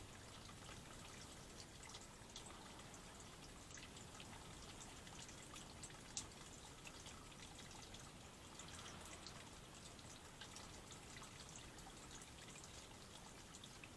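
Faint trickling, dripping water with scattered light ticks, and one sharper click about six seconds in.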